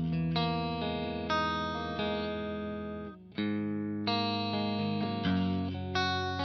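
Covenant Innovator I-STD electric guitar playing ringing chords. A new chord is struck every second or so, with a short break about three seconds in.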